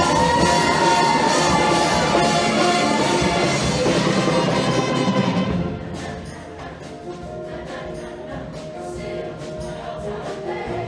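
Show choir singing with its live backing band, full and loud. About six seconds in the music drops to a softer, sparser passage.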